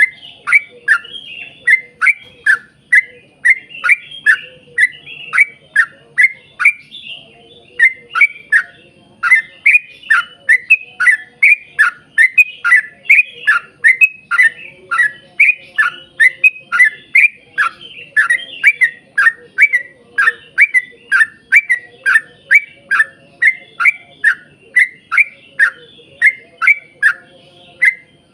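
Yellow-vented bulbul (trucukan) singing a long rapid run of loud chirps, about two a second, each note sliding down in pitch, with a brief pause about seven seconds in.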